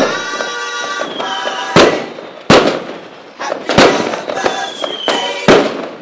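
Fireworks going off: a string of loud sharp bangs about one to two seconds apart, each followed by crackling, with a faint high whistle falling in pitch twice.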